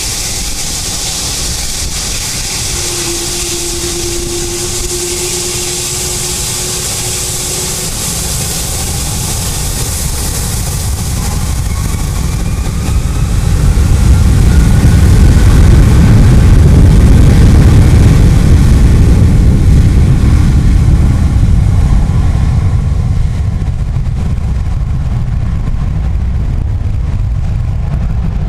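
Boeing 757 jet engines at takeoff power: a loud rushing roar whose deep rumble swells to a peak about halfway through, with a faint rising whine, then eases off as the jet moves away.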